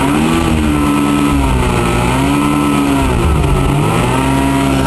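Ford Falcon's engine revving freshly started, the pitch swelling up and dropping back in slow waves, about twice.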